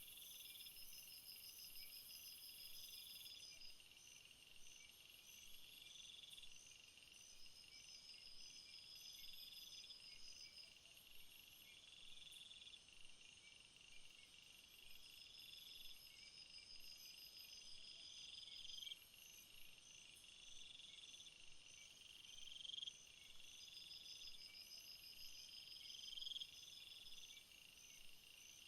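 Quiet jungle insect chorus: crickets trill steadily, one call swells and cuts off about every two seconds, and a faster pulsed trill repeats every few seconds, all high-pitched.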